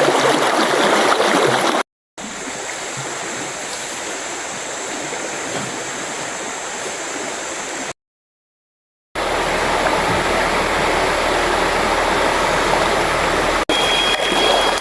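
Rushing water of a clear mountain stream flowing steadily. It is broken by two short gaps of dead silence where clips are cut together, about two and eight seconds in, and a thin high steady tone joins near the end.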